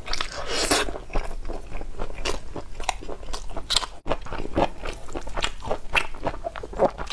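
A person chewing a mouthful of red-braised beef, fat and lean together, picked up close by a clip-on microphone: a steady run of short wet clicks and crackles from biting and chewing.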